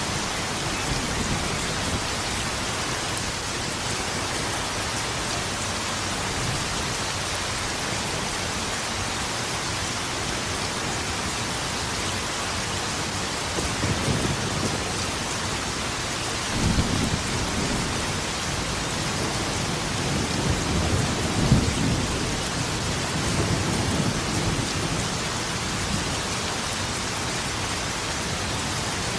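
Steady rain falling, with thunder rumbling in several low swells from about halfway through, the loudest clap about two-thirds of the way in.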